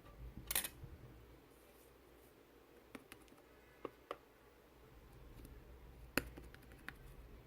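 Sticky slime being squished and poked by hand: a short crackling squish about half a second in, then a few scattered soft pops and clicks.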